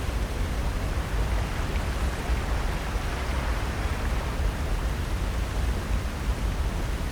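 Ocean surf on the shore, a steady, even wash with a deep low rumble and no distinct breaks.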